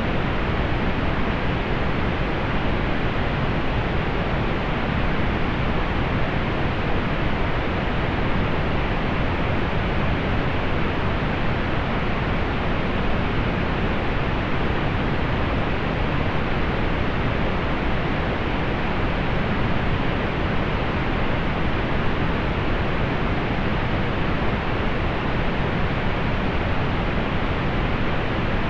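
Steady synthetic pink noise: an even, featureless hiss weighted toward the lows, with the highs rolled off.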